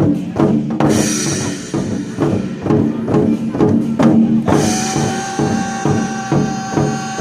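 Chinese war drums (zhangu) beaten in a steady rhythm together with loud backing music; a held high note comes into the music about two-thirds of the way through.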